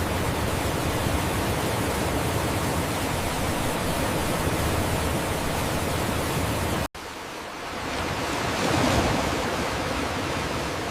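Steady, dense rushing noise with no separate events. About seven seconds in it cuts off abruptly and gives way to a second rushing noise that starts quieter, swells, then eases.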